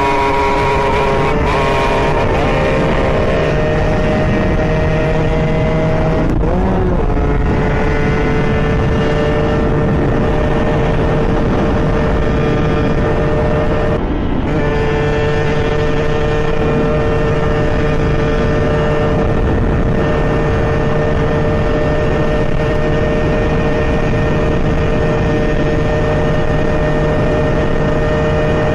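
Small two-stroke dirt-bike engine running at high, steady revs while riding. Its pitch drops about a second in and again about 6 s in, and it breaks briefly about 14 s in, as with a gear change, before settling back to a steady high note.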